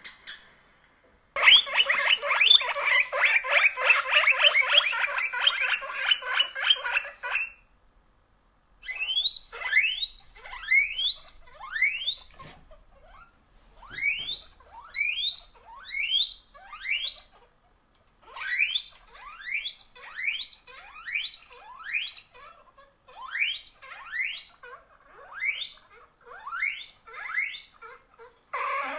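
Guinea pig wheeking: loud, sharply rising squeals repeated about twice a second, in runs of four to six with short pauses. Before them comes a few seconds of dense, fast chattering squeaks.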